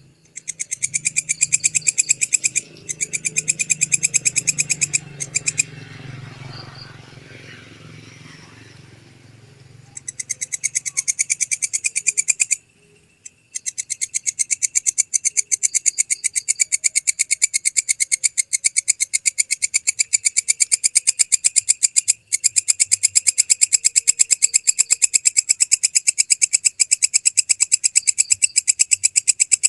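Walang kecek katydid stridulating: a fast, even train of high, dry ticks. It breaks off briefly a few times and stops for about four seconds early on, when a faint low hum is left. From about a third of the way in it runs steadily.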